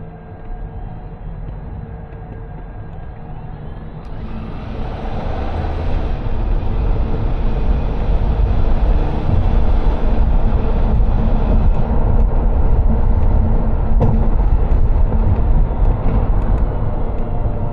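Car driving along a road: a steady rumble of engine and road noise that grows louder about four seconds in and stays loud.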